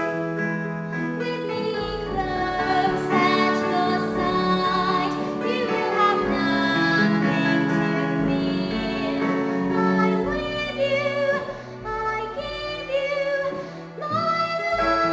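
Female singing with piano accompaniment.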